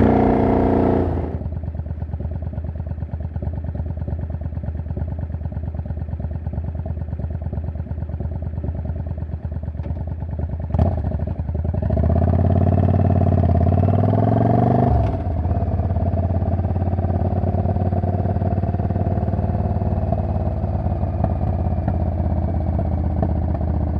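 Yamaha Drag Star 400 Classic's air-cooled V-twin with an aftermarket, non-street-legal muffler, loud exhaust note. The engine drops back about a second in to a steady lower running, and a sharp click comes near the middle. About halfway through a short rev of roughly three seconds rises in pitch, then it settles back to steady running.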